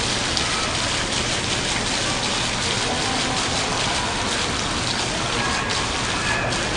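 Steady hiss and patter of falling water splashing down from a valve-controlled digital waterfall, the sheet of drops that forms letters and shapes, sounding much like heavy rain on a surface.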